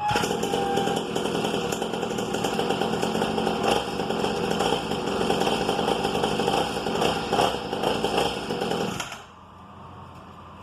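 Syx Moto 50cc two-stroke pit bike engine catching and running with a buzzing note. It drops away sharply about nine seconds in.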